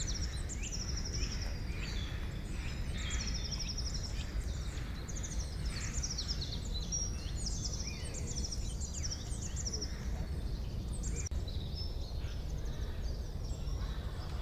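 Several wild birds singing and chirping, with many short, high-pitched trills and chirps overlapping, over a steady low rumble of background noise.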